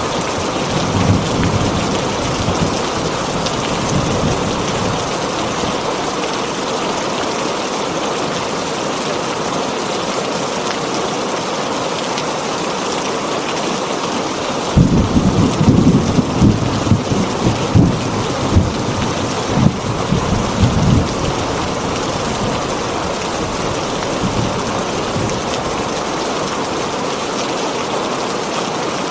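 Heavy rain falling steadily on a tin roof, with a low rumble of thunder for several seconds from about halfway through.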